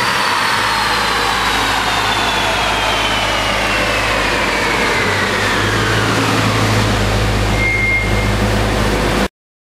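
Turbocharged Honda Civic Type R with a K20A2 engine winding down after a full-throttle pull. Under a steady low hum, a high whine falls slowly in pitch as the drivetrain spins down. The sound cuts off abruptly near the end.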